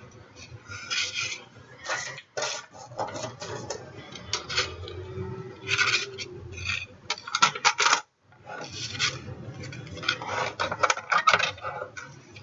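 Craft supplies being handled on a tabletop: a busy run of clicks, taps and scraping, breaking off for a moment about eight seconds in.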